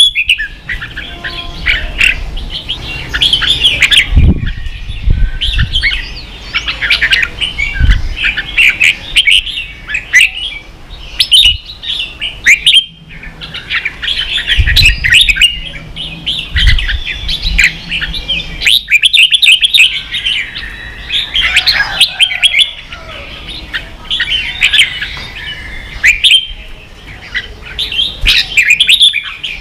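Red-whiskered bulbul singing a loud, rapid run of chattering, twittering notes with short pauses. A few brief low thuds sound under the song.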